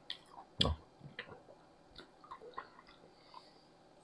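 A person chewing a mouthful of chicken curry and rice, with soft, scattered wet clicks and smacks from the mouth and from fingers mixing rice on the plate; the loudest click comes a little over half a second in.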